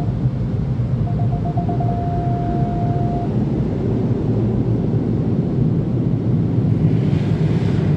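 Automatic car wash air dryer blowers running, a steady loud rumble of rushing air heard from inside the car's cabin. A thin tone, pulsing at first and then held, sounds for about two seconds near the start.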